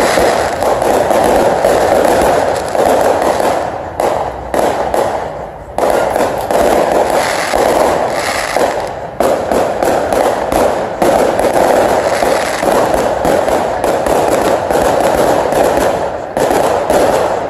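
Aerial fireworks display going off in quick succession: a dense, continuous barrage of bangs and crackle, with short lulls about four and nine seconds in.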